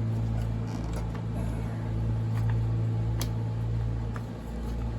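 Steady low drone of a lawn mower engine running in the background, with small clicks and creaks of chainsaw parts being handled during disassembly; one sharper click about three seconds in.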